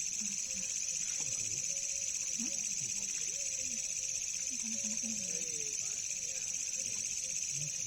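A steady night chorus of crickets and other insects, a continuous high trill, with faint distant voices underneath.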